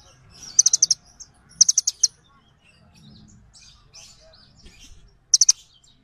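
Small birds chirping: three quick bursts of four or five sharp, high notes, one soon after the start, one about two seconds in and one near the end, with fainter twittering between them.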